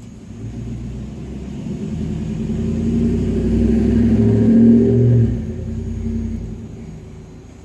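A motor vehicle passing by: engine and road noise grow louder for about four seconds, then drop off quickly and fade away.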